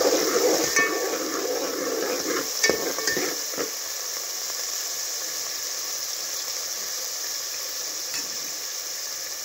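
Chopped vegetables sizzling in ghee in a metal pot, with a steel ladle scraping and clinking against the pot a few times in the first few seconds, then a steady sizzle.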